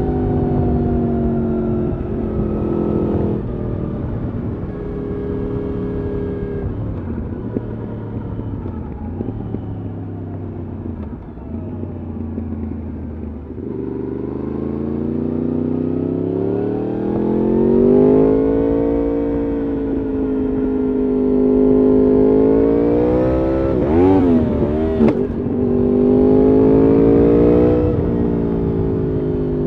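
Yamaha R1 RN22's crossplane inline-four engine through an Akrapovič exhaust, under way: the revs step and swing up and down as the bike is ridden through the gears, with a long climb in pitch through the middle and a few quick throttle blips about two-thirds of the way through.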